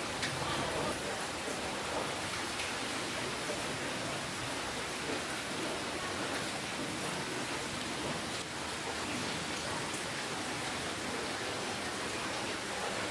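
Steady rain falling, a dense even hiss with scattered drops ticking on a surface.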